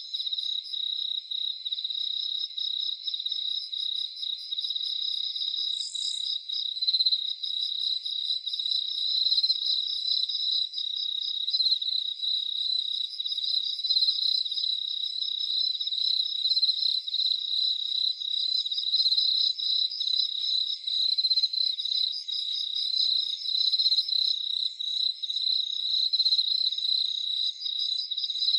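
Night chorus of crickets, a steady high-pitched trilling made of many fast pulses. A brief, higher chirp stands out about six seconds in.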